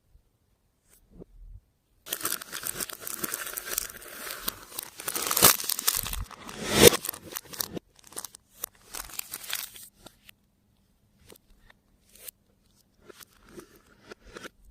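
Plastic packaging crinkled and torn open, starting about two seconds in, with two sharp, loud snaps about five and a half and seven seconds in, then scattered small rustles and clicks.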